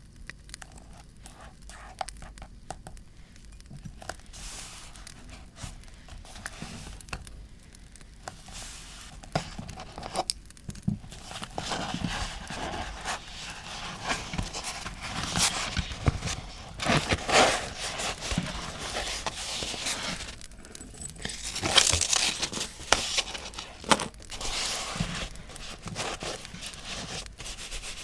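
Paper being handled for scrapbooking: irregular rustling, crinkling and tearing of paper with small taps and clicks. It is sparse and quieter at first, then busier and louder from about a third of the way in.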